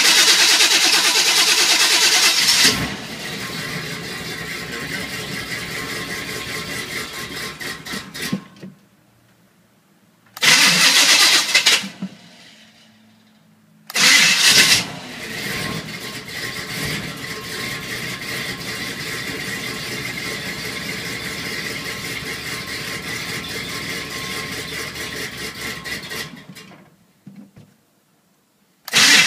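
Chevrolet 350 V8 with headers and Flowmaster exhaust, cold-started over and over. It catches with a loud burst, runs at a lower steady level for several seconds, then dies. It runs poorly on stale gas through a partly plugged Quadrajet carburetor.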